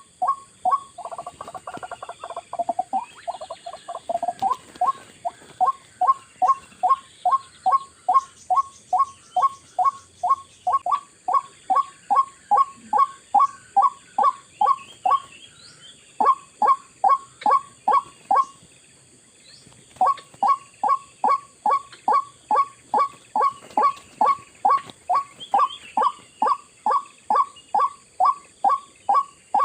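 White-breasted waterhen (ruak-ruak) calls repeated in a long even run, short falling notes about two and a half a second. They break off briefly twice around the middle, over a steady high insect drone.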